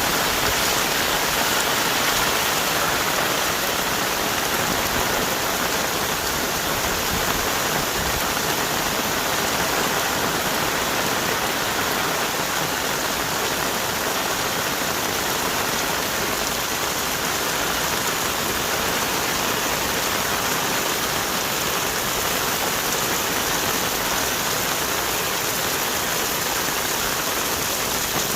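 Heavy tropical rain falling steadily on the forest trees, a dense, even hiss of rain with no breaks.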